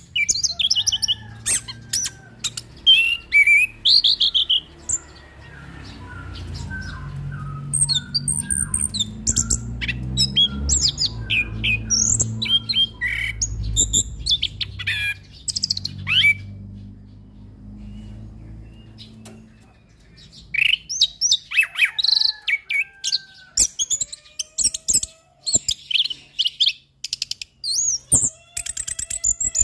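Orange-headed thrush singing a fast, varied song of chirps, whistles and trills, in quick phrases with short pauses. In the middle the song thins out and a low rumble runs underneath, then the full song returns near the end.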